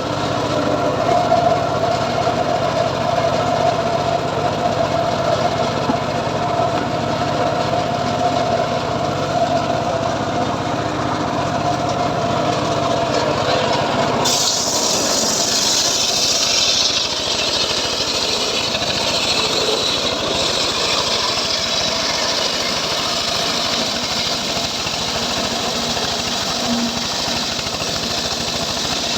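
Engine-driven saw cutting teak wood, running continuously. About halfway through the sound changes suddenly to a higher, hissing tone.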